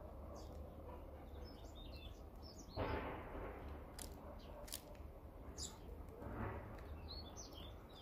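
Small birds at a seed feeder giving short, high chirps. There is a brief rush of noise about three seconds in, the loudest moment, and a softer one near the end, along with a few sharp clicks. A low steady rumble lies underneath.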